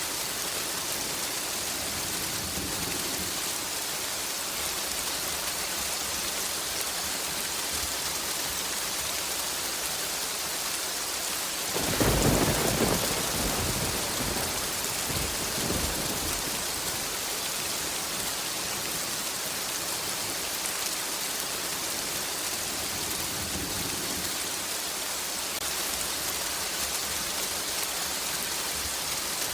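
Steady heavy rain with a single clap of thunder about twelve seconds in, breaking sharply and rolling away over several seconds.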